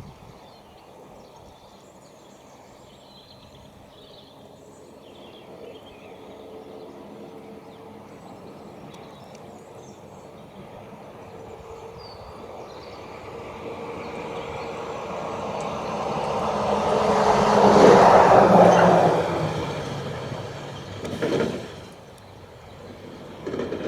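A large vehicle, most like a train, passing by: it slowly grows louder for about fifteen seconds, peaks, and its running tones drop in pitch as it goes away and fades.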